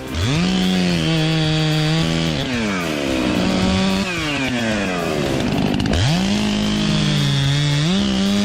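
Chainsaw revving up to full throttle and cutting, its pitch sagging and recovering as it works. It drops back toward idle between about four and six seconds in, then revs up and cuts again.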